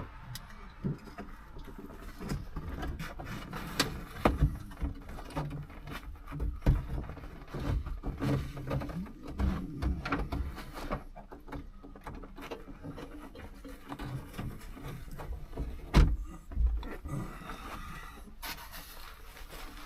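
Handling noises in a truck cab: irregular knocks, taps and rustling as a loose, crumbling headliner is worked free. One sharper knock comes about sixteen seconds in, and a short scraping hiss near the end.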